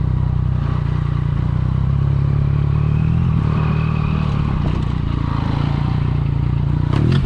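Yamaha MT-09 Tracer's inline three-cylinder engine running steadily at low revs, with a couple of sharp knocks near the end.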